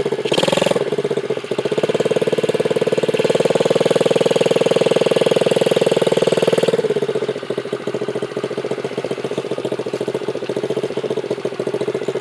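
Dirt bike engine running under throttle with a rapid, even firing pulse, then easing off about seven seconds in and running on more quietly.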